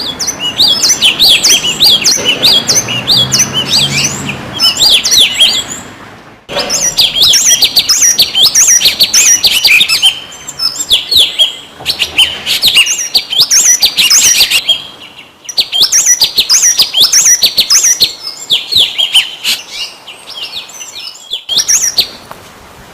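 A small songbird singing loud, rapid strings of sharp sweeping chirps, many per second, in long runs broken by short pauses.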